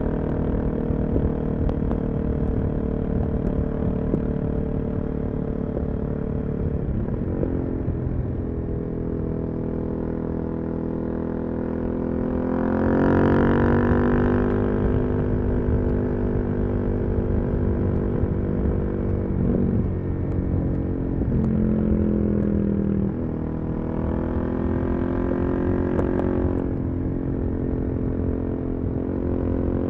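Suzuki DRZ400SM's single-cylinder four-stroke engine through a full Yoshimura exhaust, heard from the rider's position while riding. It holds steady revs with several gear changes, climbs louder under throttle about twelve seconds in and again around twenty-four seconds, then drops back near the end, over a steady wind and road rumble.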